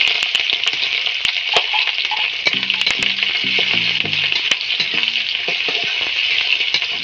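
Onion, garlic and chillies sizzling steadily as they fry in hot oil in a metal kadai, with a metal spatula clicking and scraping against the pan as they are stirred.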